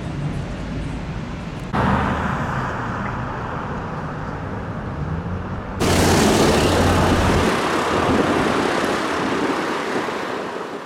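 Road traffic and vehicle noise, a steady rush that jumps abruptly louder twice, about two and six seconds in, loudest in the last part and fading out at the end.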